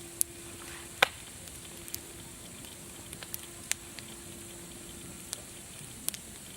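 Campfire crackling: a steady hiss broken by sharp, irregular pops and snaps, the loudest about a second in.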